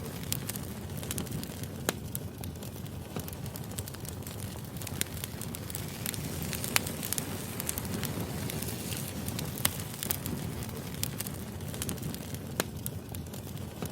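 Firewood burning: a steady low rush of flame with sharp crackles and pops from the logs at irregular intervals.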